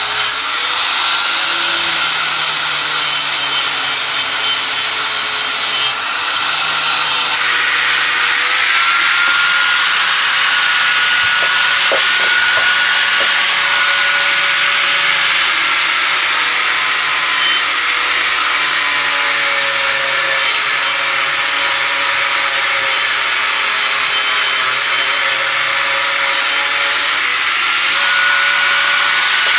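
Angle grinder running steadily as its disc grinds the edge of an axe to sharpen it. The motor's whine wavers slightly in pitch as the load changes, and the high grinding hiss eases about seven seconds in.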